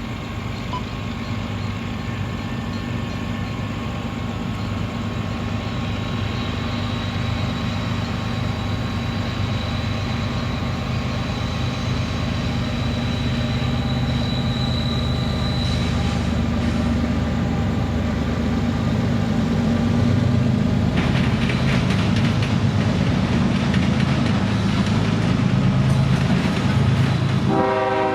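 A freight train's diesel locomotives approach, their low rumble growing louder. From about two-thirds of the way in, a rapid rattling clatter joins it, and near the very end the locomotive's air horn starts to sound.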